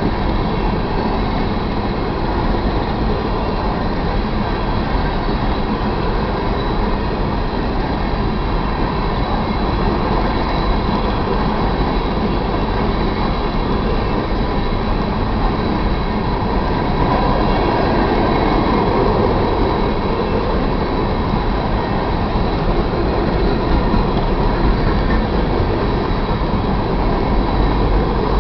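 BNSF freight train of covered hopper cars rolling past: a steady rumble of steel wheels on the rails, swelling slightly about two-thirds of the way through.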